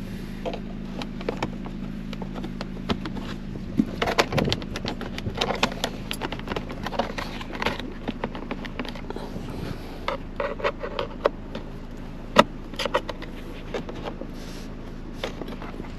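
Plastic centre-console trim being pried off: scattered clicks, knocks and scraping as the rear cover is worked loose from its clips. A steady low hum runs underneath for about the first half.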